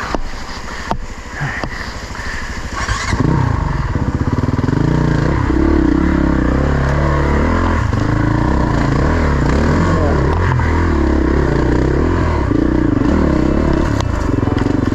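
Dirt bike engine riding single track: quieter with a few sharp knocks for the first three seconds, then running loud from about three seconds in, revving up and down repeatedly as the throttle is worked.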